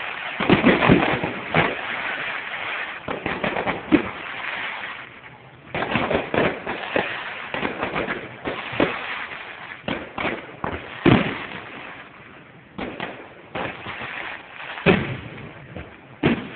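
Aerial firework shells bursting one after another: a string of sharp booms with crackling in between, a few of the booms markedly louder than the rest.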